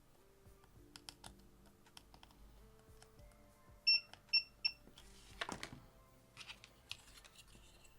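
Three short, high electronic beeps in quick succession about four seconds in, from bench electronics equipment, among light clicks and taps; a brief rushing noise follows just after.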